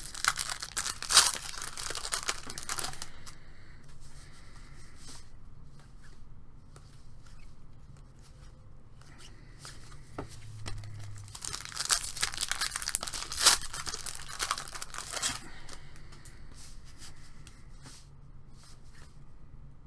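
A trading-card pack wrapper being torn open and crinkled, in two bouts of crackling: one at the start and one about halfway through, with light rustling of cards and wrapper in between.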